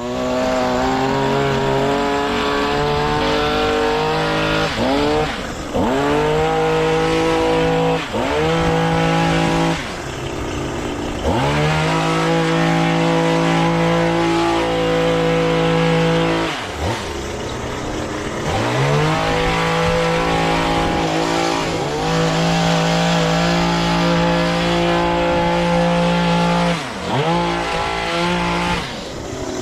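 Small petrol engine of a lawn-care machine working overgrown grass, running hard and dipping sharply in pitch then recovering several times as it bogs under load or the throttle is eased.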